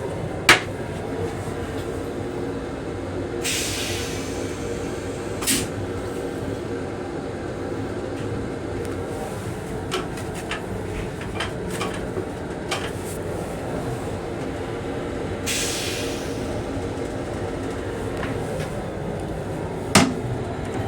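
Metro-North M7 railcar running, a steady rumble with faint held tones. A sharp knock comes about half a second in and another near the end, and there are two short hissing bursts and a few light clicks in between.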